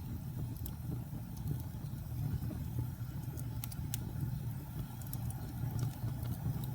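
Wood fire burning with a steady low rumble, broken by scattered sharp crackles and pops, several close together around the middle.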